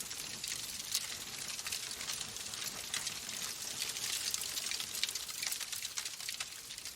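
Wood fire in a fireplace crackling: a steady hiss dotted with many small, quick pops and snaps.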